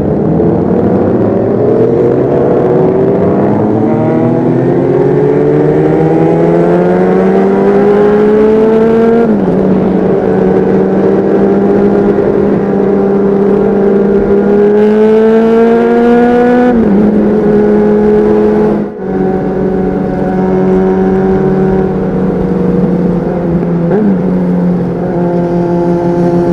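Honda CBR600RR inline-four with a Leo Vince aftermarket exhaust, heard on board while riding: the engine note climbs as it accelerates, drops sharply at upshifts about 9 and 17 seconds in and again near the end, and holds steady while cruising between shifts.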